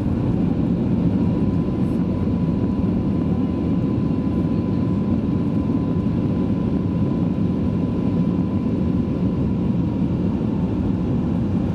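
Cabin noise of a Boeing 737 MAX 8-200 with its CFM LEAP-1B engines on the ground after landing: a steady, heavy rumble, with a thin steady whine that comes in about a second in and fades near the end.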